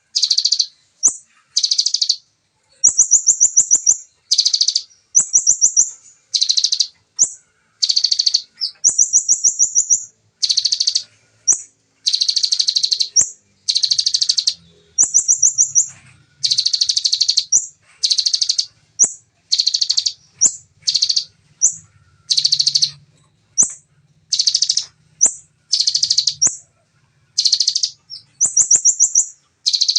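Ciblek (bar-winged prinia) singing its fast 'tembakan' song: short, rapid, high trilled bursts repeated about once a second, each a quick run of notes.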